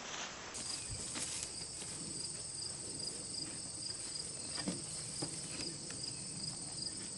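Insects chirping in a steady, high-pitched trill, with a few faint knocks.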